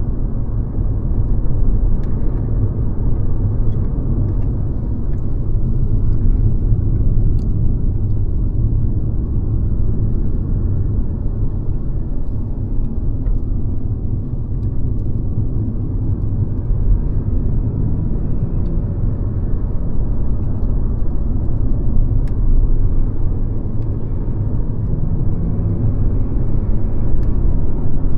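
Mercedes-Benz C-Class (W206) being driven: a steady low rumble of engine and road noise that swells and eases a little as it goes.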